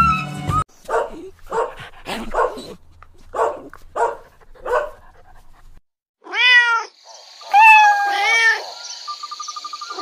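A young calico kitten meowing: three longer meows, each rising then falling in pitch, from about six seconds in. They follow a run of about seven short, quick calls.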